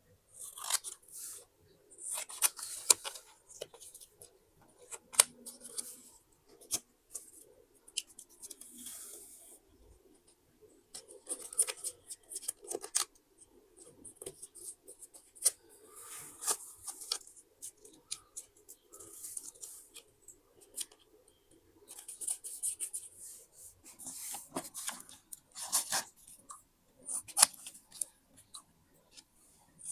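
Scissors cutting paper in short runs of crisp snips, with brief pauses between runs.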